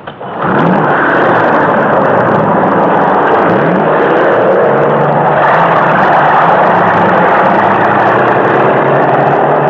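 Loud, steady mechanical whir of a vehicle engine, with two short rising glides in its first few seconds.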